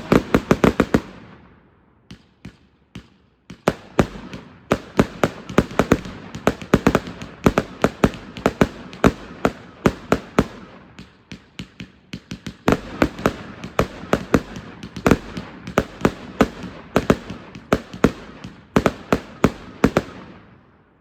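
A 555-shot fireworks cake firing a rapid string of shots, about three to four sharp cracks a second. There is a brief lull about two seconds in, and the shots stop just before the end.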